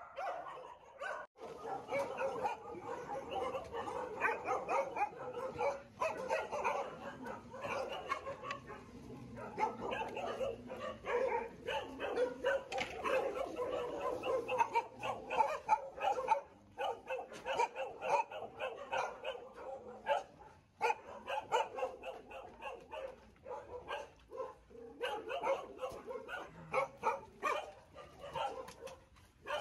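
A large group of dogs barking and yipping all at once, a dense overlapping chorus with only brief lulls.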